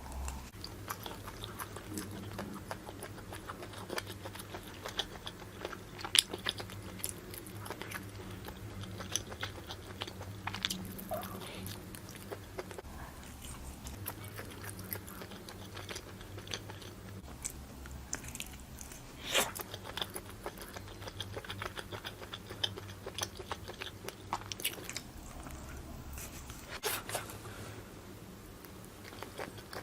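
A person chewing and biting grilled squid off a barbecue skewer close to the microphone: an irregular run of wet clicks and crunches, with a few louder bites scattered through.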